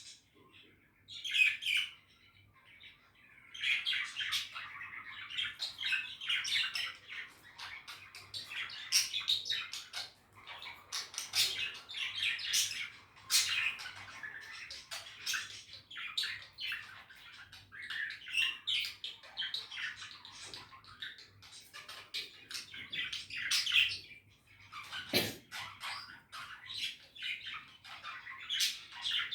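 Budgies chattering: rapid chirps, warbles and occasional squawks, with short pauses about two seconds in and again near twenty-five seconds.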